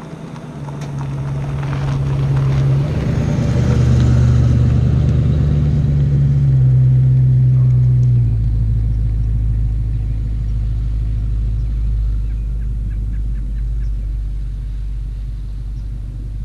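1968 Ford Mustang GT's V8 driving past and up a driveway, loudest about four seconds in. From about eight seconds the engine settles to a lower, steady idle.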